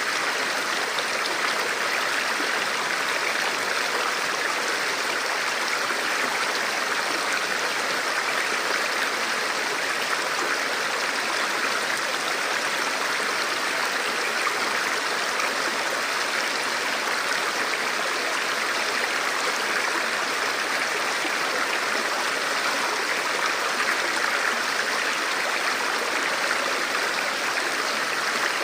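Forest stream or small river flowing over rocks: a steady, even rush of water with no breaks.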